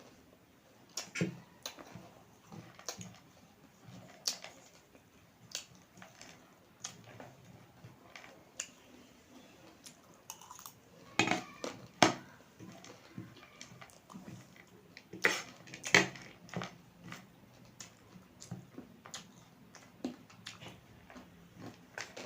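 Close-up eating sounds: chewing spicy instant noodles, with irregular clicks and knocks of utensils against a bowl, the loudest clustered about halfway through and again a few seconds later.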